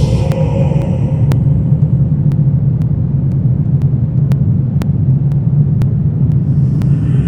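Dark horror-ambience drone: a steady low rumble with faint sharp ticks about twice a second.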